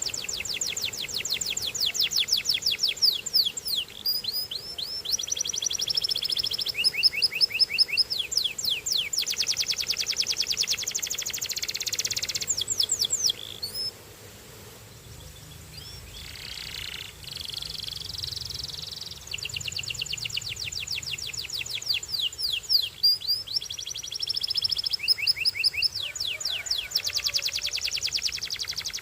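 Canary singing: long phrases of fast repeated notes and trills, changing from one rapid roll to the next, with a quieter pause near the middle before the song resumes.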